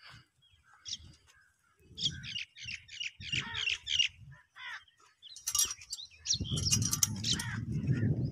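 Small birds chirping in runs of short, quick notes. A low rumbling noise comes in about six seconds in.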